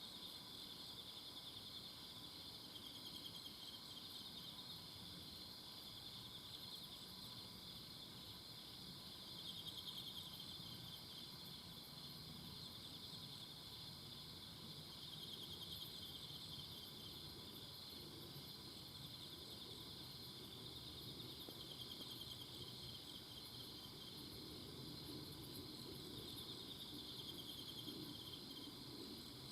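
Forest insects trilling together in a steady, high-pitched, finely pulsing chorus that swells and fades a little now and then, over a faint low rumble.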